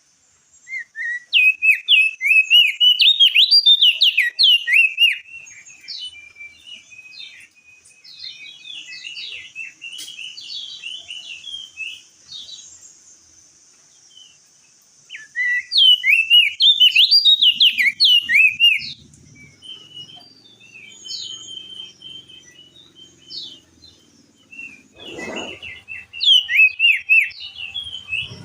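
Crested white-eye (opior jambul) singing: three loud bursts of fast, tumbling high chirps, with quieter scattered chirps between them, over a faint steady high hiss.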